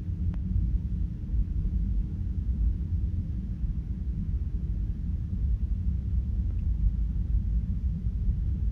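Jet airliner taking off, a steady low rumble of engines and rolling with a faint steady drone running through it.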